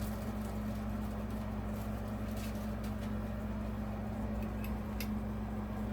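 A few faint clicks and taps of small screws and fan hardware being handled, over a steady low hum.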